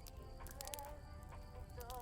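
A song playing faintly from a radio over a crackling campfire, with sharp scattered pops and snaps from the burning wood.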